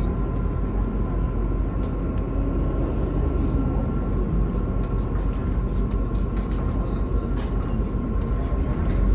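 Inside a moving MAZ-216 bus: steady engine and road rumble with a faint steady whine, and a few brief clicks or rattles.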